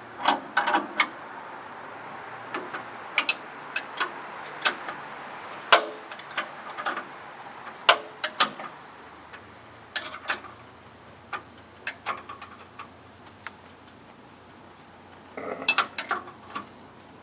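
Scattered sharp metallic clicks and clanks from hand work on a Harbor Freight portable bandsaw sawmill being readied after a blade change, with a quick run of clicks near the end.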